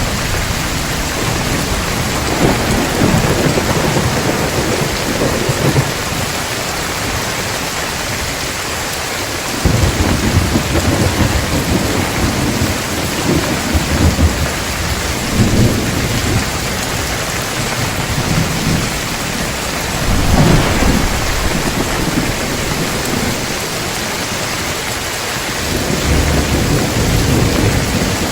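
Heavy rain falling steadily, with several rolls of thunder rumbling through it; one roll starts abruptly about ten seconds in, and another swells up near the end.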